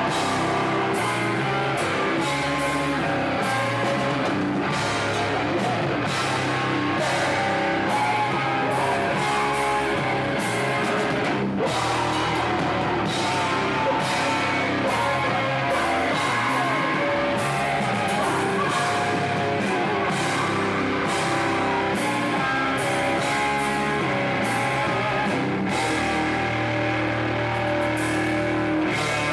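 Metalcore band playing live: loud distorted electric guitars, bass and drum kit, dense and steady, with frequent drum hits.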